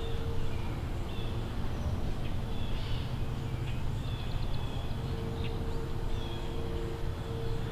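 Birds chirping in short, repeated high phrases over a steady low rumble, with a faint hum that comes and goes.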